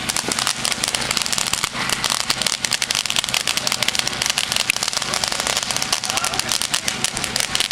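A Winda 'Dancing with Ghosts' consumer firework fountain burning, with a steady spray hiss under dense, rapid crackling.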